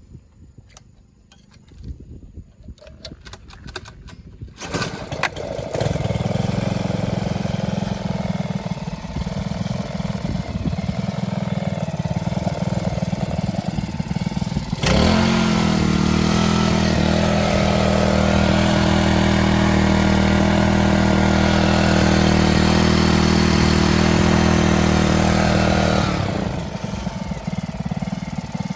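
Honda FG201 mini tiller's small petrol engine starting about five seconds in after a few clicks, then running steadily at idle. About fifteen seconds in it is throttled up sharply to a higher, louder steady speed, and it drops back to idle near the end. It is a working-order check of the running engine.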